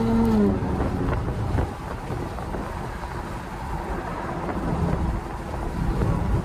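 Car cabin at highway speed: steady low road and wind noise with the engine droning underneath. A steady pitched note falls away in the first half second.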